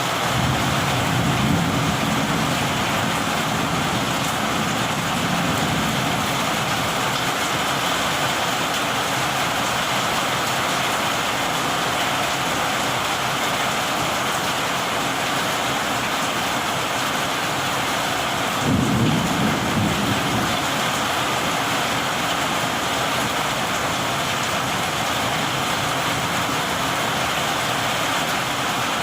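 Heavy rain falling steadily in a strong rainstorm, with low rumbles of thunder swelling twice, near the start and again about two-thirds of the way through.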